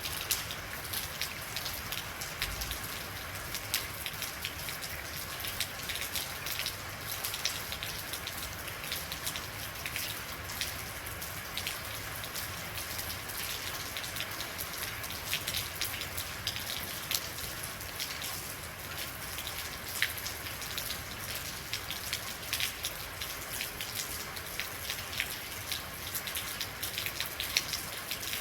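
Steady rain falling, with many distinct drops pattering and ticking on a hard surface.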